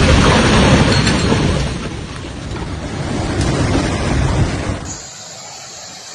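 Floodwater rushing past: a loud, steady roar with a deep rumble that drops abruptly to a faint hiss about five seconds in.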